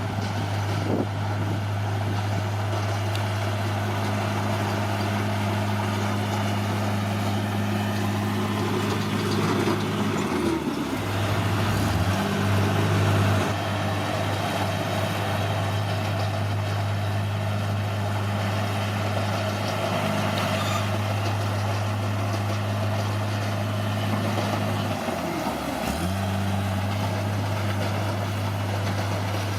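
Bulldozer's diesel engine running steadily. Its pitch sags twice, about ten and twenty-five seconds in, and comes back up each time.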